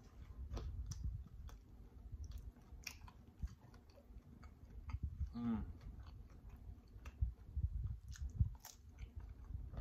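A person chewing a mouthful of homemade spinach and jerk chicken pizza close to a clip-on microphone, with wet, clicky mouth sounds. A short hummed 'mm' comes about five and a half seconds in, and a fresh bite near the end.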